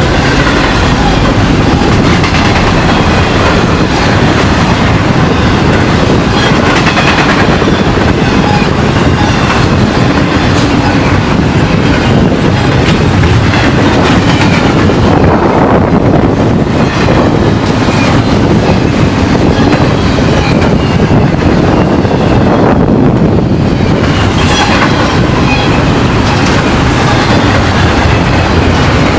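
Train cars rolling past close by: a loud, steady rumble with the wheels clacking over the rail joints.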